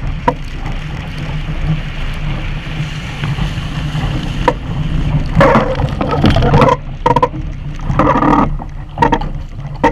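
Wind buffeting the microphone and water rushing along a Sunfish sailboat's hull as it sails, with several louder irregular bursts of splashing or slapping in the second half.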